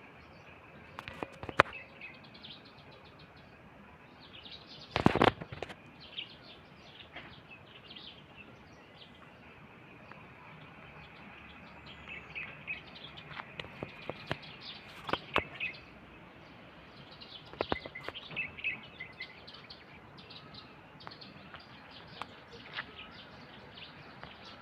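Small birds chirping in scattered bursts of short, high calls over a steady outdoor hiss. A few sharp clicks are heard, with one brief loud thump about five seconds in.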